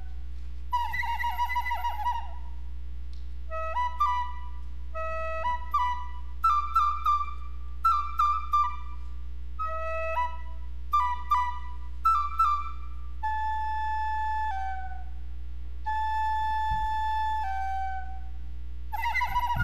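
A whistle-like wind instrument sounding a series of bird calls as an invocation of the birds. It opens with warbling trills, moves into quick phrases of upward-slurring notes, and ends with long, held two-note calls that step down in pitch, before a trill comes back near the end. A steady low hum runs underneath.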